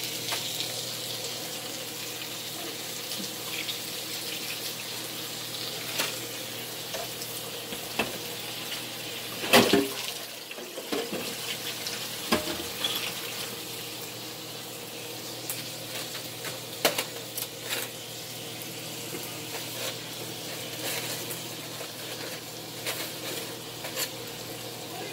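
Food sizzling steadily in pans on a stovetop, with scattered clicks and knocks of a utensil against the pans and one louder clatter about ten seconds in.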